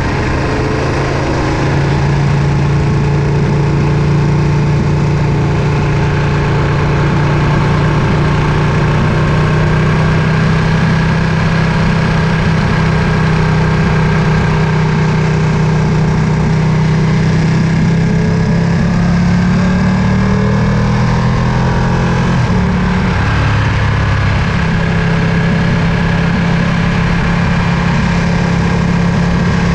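Ducati Panigale V2's 955 cc V-twin engine running while ridden. Its note climbs slowly, drops briefly about three-quarters of the way through, then holds steady.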